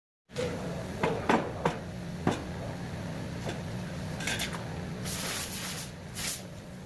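Workshop handling noises: a few sharp knocks and clatters of tools or wood being set down, then three short hissing swishes, over a steady low hum.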